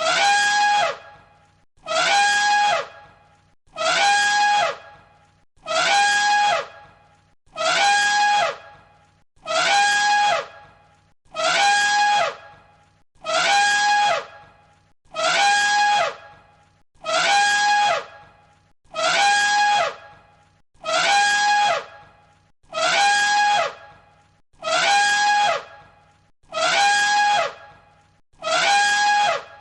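A looped cartoon animal-call sound effect: the same high, brassy call, about a second long with a falling pitch at the end, repeats identically about every two seconds.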